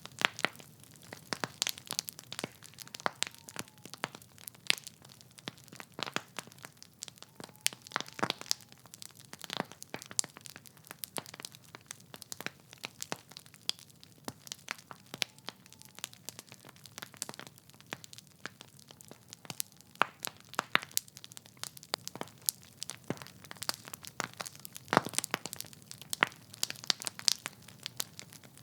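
Wood fire in a fireplace crackling: burning logs give off irregular sharp pops and snaps, many a second and some louder than others, over a low steady hiss.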